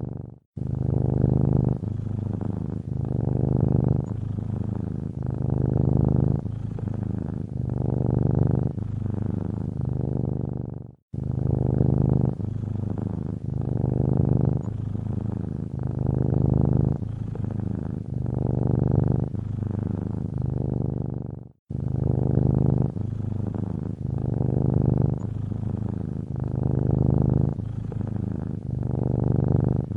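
Domestic cat purring steadily, a low rumble that swells and fades every second or two with its breathing. It cuts out briefly three times: near the start, about a third of the way in, and about two thirds of the way in.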